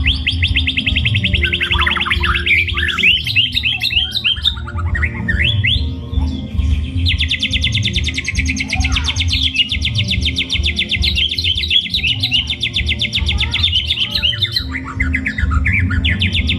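White-rumped shama (murai batu) singing a full fill-in song: two long, very fast trills, the second starting about seven seconds in, with bursts of varied swooping whistles between them.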